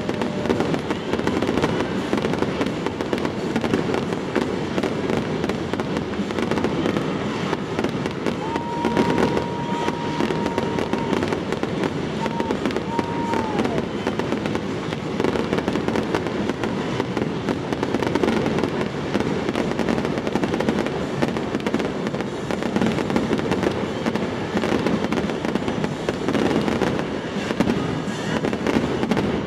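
Fireworks barrage: many shells bursting in rapid, continuous succession, a dense crackling and popping with no break. A high held tone sounds for a few seconds about a third of the way in, then falls away.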